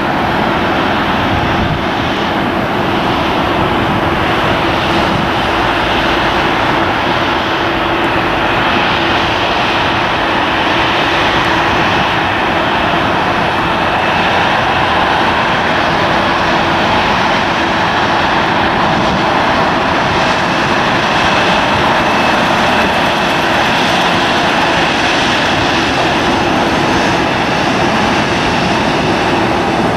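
Boeing 737-900ER's twin CFM56-7B turbofan jet engines running loud and steady, a dense rush with a steady low hum and a fainter high whine.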